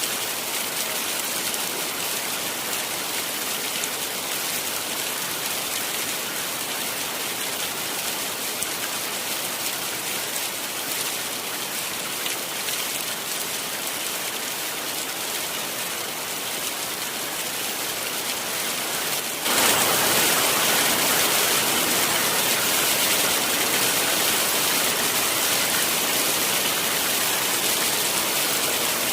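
Heavy rain falling, a steady hiss. About two-thirds of the way through it suddenly becomes louder and fuller.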